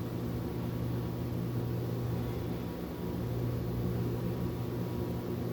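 A steady low machine hum under a light even hiss, with no change throughout.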